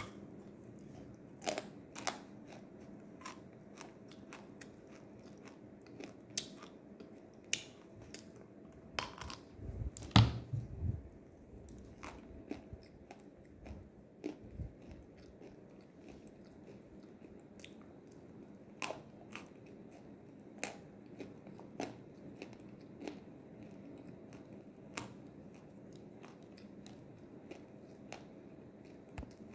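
A person biting into and chewing crunchy chunks of edible clay (nzu), close to the microphone: a string of sharp, separate crunches and cracks, the loudest about ten seconds in.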